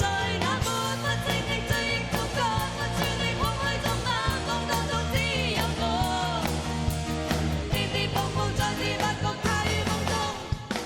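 A singer performing an upbeat Cantonese pop-rock song over a band backing with a steady drum beat.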